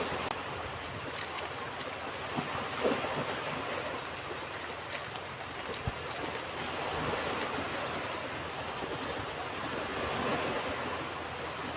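Ocean surf washing onto a beach: a steady rush of waves that swells and eases, with a few faint brief clicks.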